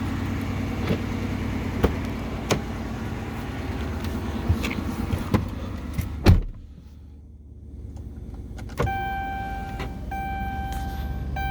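Chrysler 300C with a Dynomax Race Bullet mini exhaust idling just after a cold start, a steady low drone with a few light clicks. About six seconds in comes a loud thump, after which the engine is heard only faintly. A steady electronic chime tone follows near the end.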